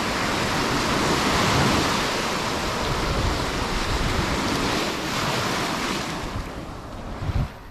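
Sea waves breaking and washing on a sandy beach, with wind buffeting the microphone. The surf noise swells through the middle and fades near the end, with a short low bump just before it stops.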